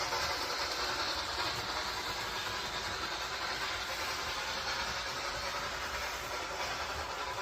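Excursion train running along the track, a steady noise with no distinct strokes.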